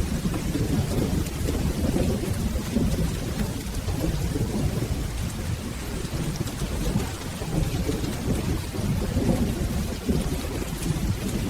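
Steady rain with a continuous low rumble of rolling thunder that swells and eases, and fine ticks of raindrops above it.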